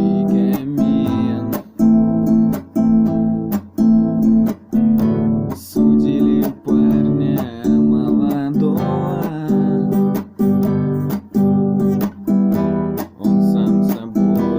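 Acoustic guitar strummed in a steady rhythmic pattern of open chords, with a strong stroke about once a second.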